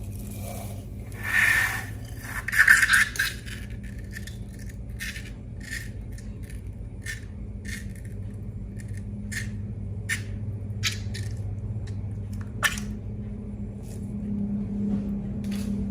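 Slime being worked by hand: two scraping squelches near the start, then a run of small sticky clicks and snaps, over a steady low hum.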